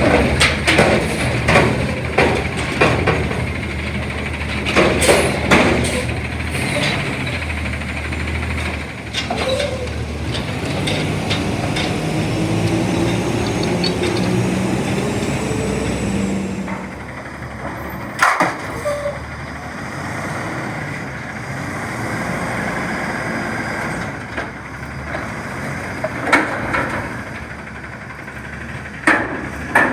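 CNG front-loader garbage truck working: its engine running, with a pitch that rises steadily for several seconds near the middle. Loud metal clanks and bangs come in the first several seconds and again at about 18, 26 and 29 seconds.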